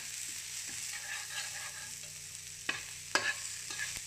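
Minced garlic and onion sizzling in olive oil in a frying pan, a steady hiss, while a metal spatula stirs them and clicks against the pan three times in the second half.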